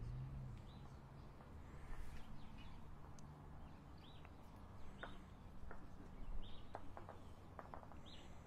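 Quiet outdoor ambience with a low steady hum, broken by short, scattered bird chirps and a few faint clicks in the second half.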